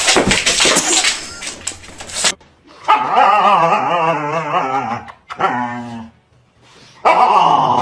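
A dog vocalising: a long wavering howl about three seconds in, then a shorter whine. Before it comes a couple of seconds of noisy scuffling with clicks.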